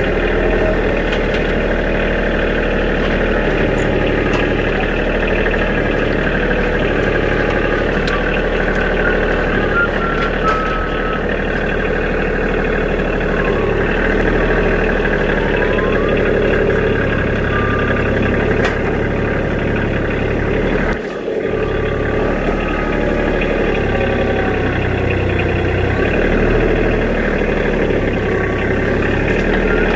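Kioti DK35 SE compact tractor's diesel engine running steadily under work, with a short drop in level about two-thirds of the way through.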